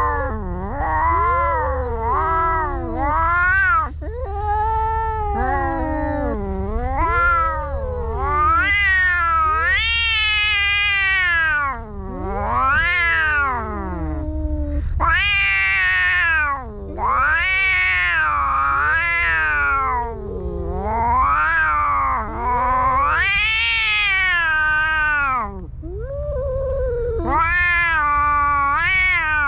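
Domestic cats caterwauling in a fight standoff: long, wavering yowls that rise and fall in pitch, one after another with only brief breaks, over a steady low hum.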